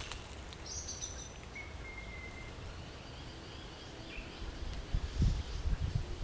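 Birds calling: a few brief high chirps and a short level whistled note in the first couple of seconds, with fainter calls after. Near the end, low rumbling bumps on the microphone take over as the loudest sound.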